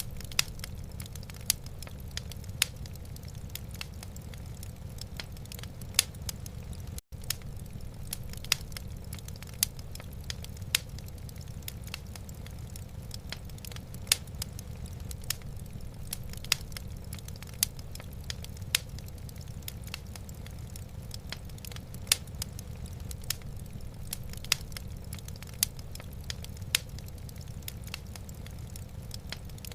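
Wood logs burning in a fireplace, crackling with irregular sharp pops over a steady low rumble. There is a split-second dropout about seven seconds in.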